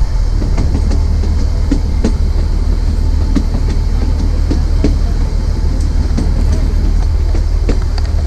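Narrow gauge train coaches running along the track: a steady low running noise with irregular clicks and knocks from the wheels on the rails.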